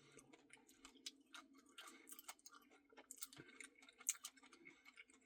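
Near silence with faint, irregular little clicks and soft mouth sounds of someone eating ice cream, one click a little stronger about four seconds in.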